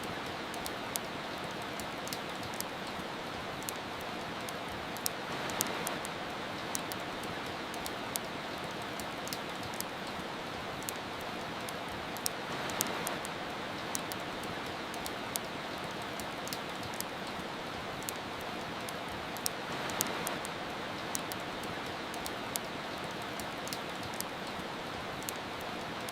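Steady soft rain, swelling slightly every seven seconds or so, with a wood fire crackling over it in frequent sharp, irregular pops.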